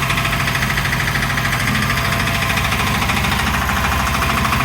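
A small engine running steadily at an even idle, with a fast, regular pulsing beat.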